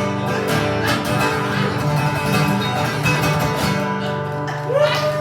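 Guitar accompaniment playing the closing chords of a song, with the last chord held until near the end, when voices from the audience start to rise.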